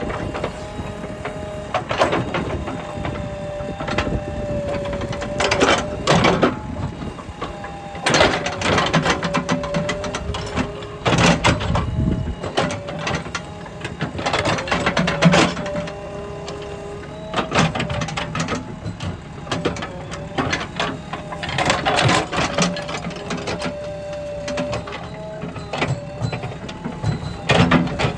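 Digging machine working: engine running under load with a whine that shifts in pitch as the hydraulics work, and repeated clanks and scrapes from the bucket.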